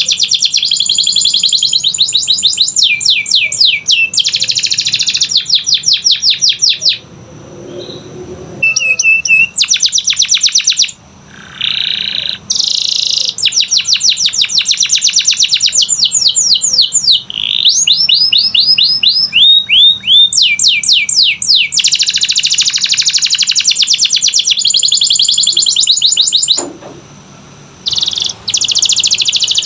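Canary singing a long song of fast trills and rolls, with runs of rapidly repeated, falling notes. It breaks off briefly about 7 s in and again near the end.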